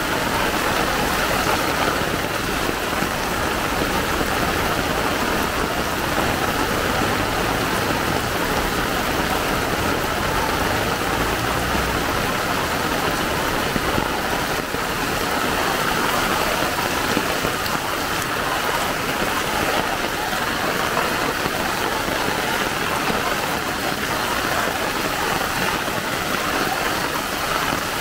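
Heavy typhoon rain pouring steadily onto a flooded street, a dense unbroken hiss. A low rumble underneath fades out about twelve seconds in.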